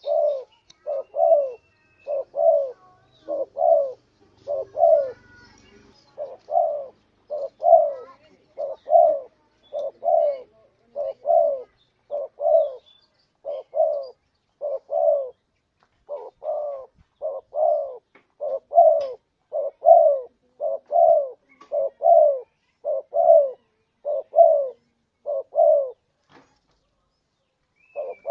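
Spotted dove (tekukur) cooing its 'kuk dua' song: falling coos repeated about twice a second in a long unbroken run that stops about two seconds before the end.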